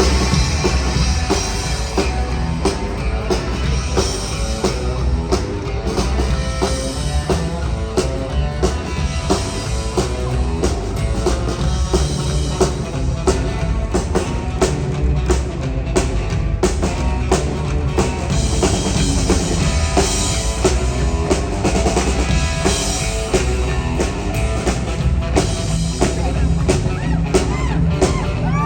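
Rockabilly band playing with the drum kit out front; the bass drum keeps a steady driving beat and no vocals are heard.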